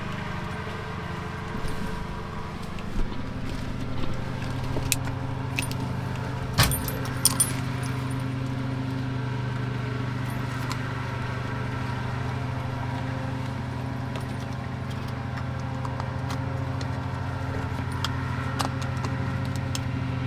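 Keys jangling and small metal clinks as an ignition key switch is fitted into the 1970 Chevy C-40 truck, with a cluster of clinks about five to seven seconds in. A steady low hum runs underneath.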